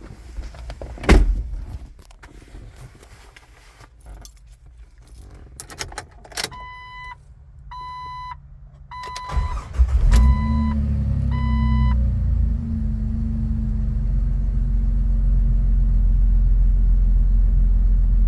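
A thump about a second in and jingling keys, then a warning chime beeping about once a second. Near the middle, the 2000 Jeep Wrangler Sahara's 4.0-litre inline-six cranks briefly, catches on a cold start and settles into a steady idle while the chime beeps on for a couple of seconds.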